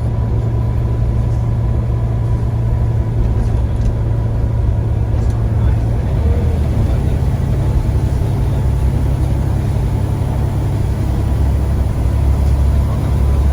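Scania CN94UA single-decker bus engine running under way, heard from inside the bus, its low note changing pitch about halfway through as the engine speed changes.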